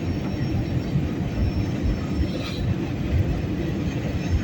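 Steady low rumble of engine and airflow noise inside an Airbus A320 passenger cabin.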